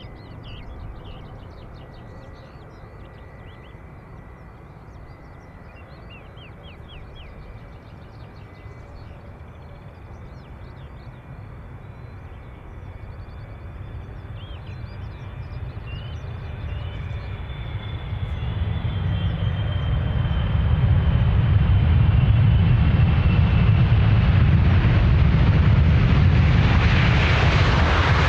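Boeing 777's twin turbofan engines on final approach: a faint, slightly falling whine and low rumble that grows steadily louder, becoming a loud rumble and rush about two-thirds of the way through as the airliner nears.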